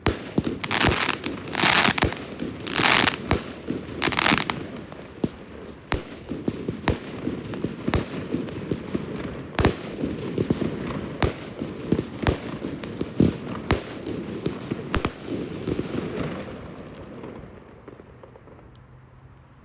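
Fireworks display: a rapid run of sharp bangs with crackling, and several longer noisy bursts in the first few seconds. It dies away after about sixteen seconds.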